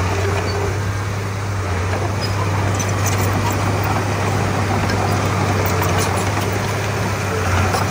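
Komatsu D31P crawler bulldozer's diesel engine running steadily, a continuous low drone.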